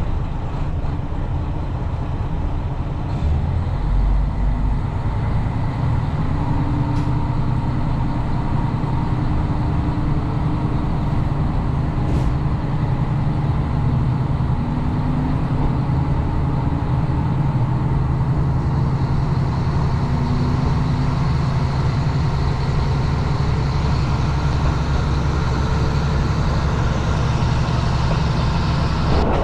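Diesel vehicle engine idling with a steady low drone.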